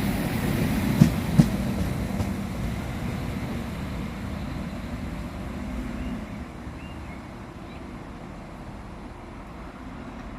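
A Class 4000 diesel multiple unit trundling into the station. Its wheels knock twice over rail joints early on, then the rumble fades steadily as the train slows towards a stop.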